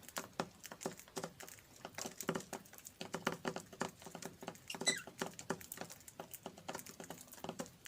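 Budgies pecking at food with their beaks: a dense, irregular run of small clicks and taps, with one short chirp about five seconds in.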